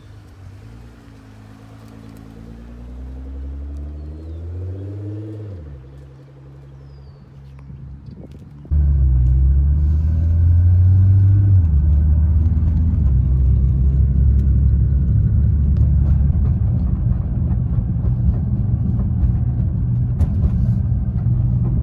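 A car engine revving, its note rising for a few seconds and then dropping away. About nine seconds in comes a sudden jump to a loud, steady low engine and road rumble, its note stepping down once a few seconds later.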